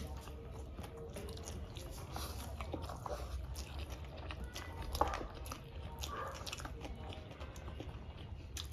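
Close-up mouth sounds of eating: biting and chewing food, with scattered small crunches and smacks, the sharpest crunch about five seconds in.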